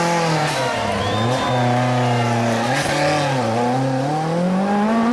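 Group B rally car engine running hard at high revs. Its pitch drops and climbs again about four times as the car lifts and accelerates.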